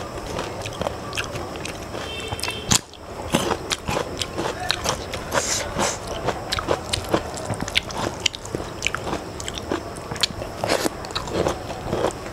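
Close-miked eating sounds: wet chewing and mouth smacks of rice with fish curry, a quick irregular run of clicks, with fingers squishing the rice and curry against a steel plate.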